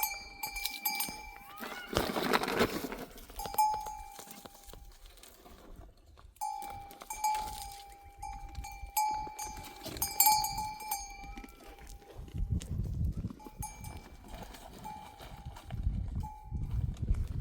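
Neck bells on grazing livestock clanking and ringing on and off, with a flurry of noise about two seconds in.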